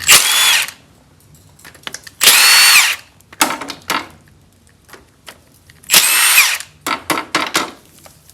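Cordless power tool whirring in three short bursts, spinning bolts out of an engine, with light metallic clicks and rattles between the bursts.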